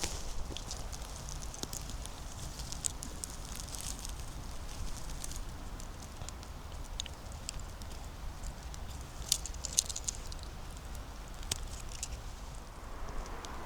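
Scattered light crackles and snaps of dry leaves and twigs in the forest litter, coming in small clusters, over a faint steady low rumble.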